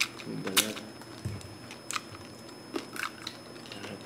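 Crunching and chewing of crispy deep-fried pork skin close to the microphone: several sharp, separate crunches spread over the few seconds.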